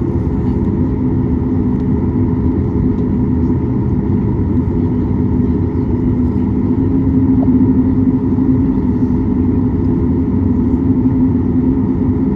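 Steady drone inside the cabin of a Boeing 737 MAX 8 airliner: its CFM LEAP-1B jet engines and the airflow give a loud low rumble with a few steady hum tones over it.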